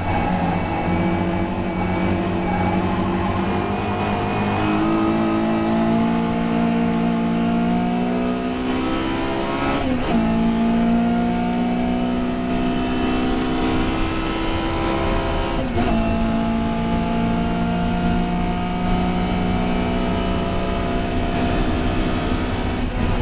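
Historic touring race car engine pulling hard, its pitch climbing slowly through the gears with upshifts about ten seconds in and again about sixteen seconds in, where the pitch drops sharply before climbing again.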